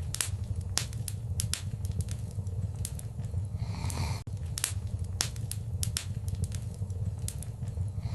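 Wood fire in a fireplace crackling, with frequent sharp pops over a steady low rumble of the flames, and a short rush of hiss about four seconds in.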